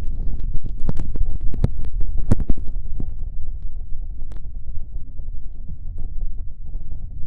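Ear licking into the left ear of a binaural microphone: wet tongue clicks and smacks pushed deep into the ear, over a low rumble from the covered ear. The clicks come thick for the first few seconds, then thin out.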